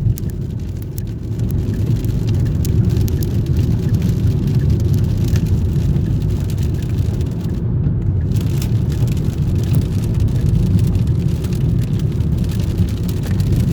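Rain falling, with scattered drop ticks over a heavy, steady low rumble.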